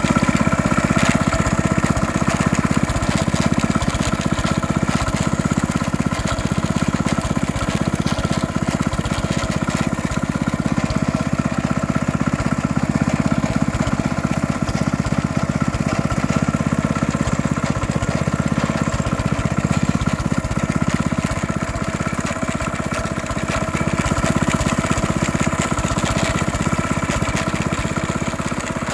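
Honda GX160 single-cylinder four-stroke engine running steadily with a rattling, grinding noise from inside. The cause is unknown; otherwise the engine runs well, with no smoke, clean oil and good compression.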